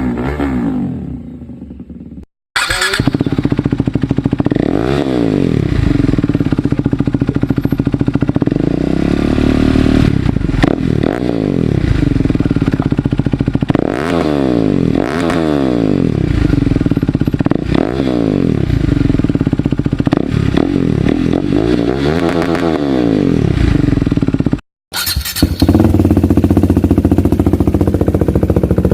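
KTM 390 Duke single-cylinder engine through an aftermarket exhaust, free-revved about a dozen times, each rev rising and falling in pitch. After a brief cut about 25 seconds in, it runs steadily at a low, even speed.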